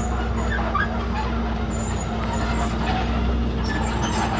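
Diesel engine of a Komatsu D31PX bulldozer running at a steady speed, a constant low drone.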